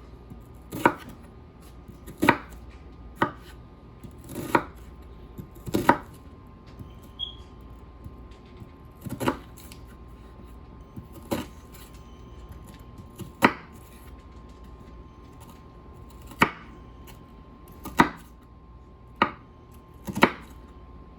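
Kitchen knife slicing an onion on a cutting board: about a dozen single, unhurried cuts at uneven gaps of one to three seconds, each a sharp knock of the blade against the board.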